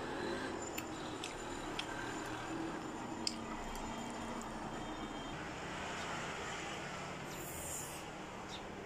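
A person chewing instant ramen noodles: soft wet mouth squelches and a few sharp lip clicks over a steady background hiss. A short hiss comes near the end as another forkful of noodles goes into the mouth.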